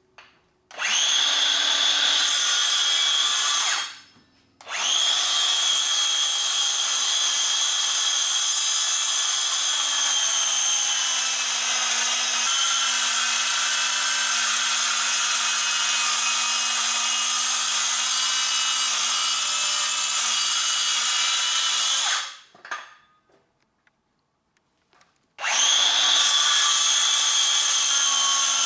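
Power saw running and slowly cutting through a silicone-faced board, in three runs separated by short pauses: a short run, a long one of about seventeen seconds, and a third starting near the end.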